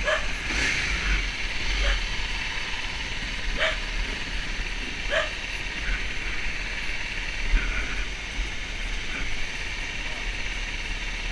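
Steady rush of wind and a motorbike running during a ride, with a few short dog barks in the first five seconds.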